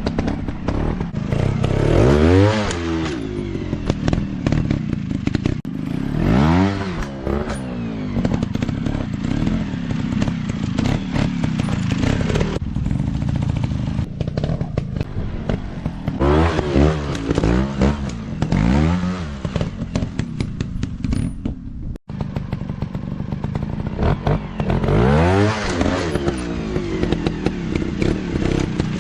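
Dirt bike engine revving hard in repeated bursts, the pitch climbing and falling again every few seconds as the throttle is opened and shut, with many knocks and rattles over the top. The sound cuts out for an instant about two-thirds of the way through.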